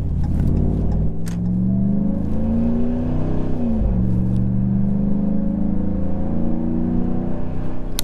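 A 2015 Ram 1500's 5.7L Hemi V8 through a Carven Competitor Series cat-back exhaust, accelerating through the gears. The engine note climbs steadily, drops sharply at an upshift a little under four seconds in, then climbs again.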